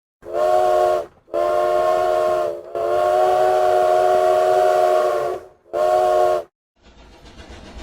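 Train whistle blowing four blasts (short, long, longer, short), each a steady chord of several tones. After the last blast a train rumble starts up and grows louder near the end.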